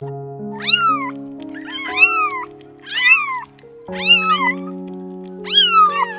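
Domestic cat meowing five times, each meow rising and then falling in pitch, over background music with long held notes.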